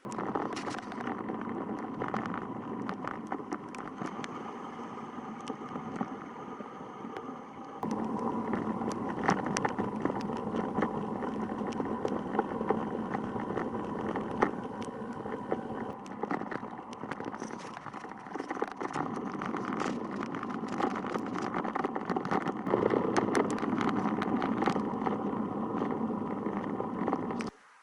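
Steady road and traffic noise heard while riding a bicycle along a road, with many small clicks and rattles. The sound changes abruptly and gets louder about eight seconds in, and cuts off suddenly near the end.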